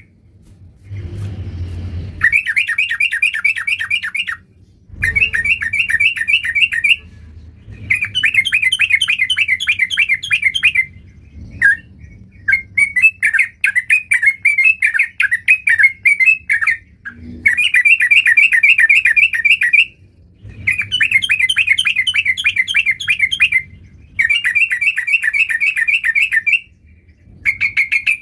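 Yellow-vented bulbul singing loudly: phrase after phrase of rapid, chattering notes, each phrase two to three seconds long with short pauses between.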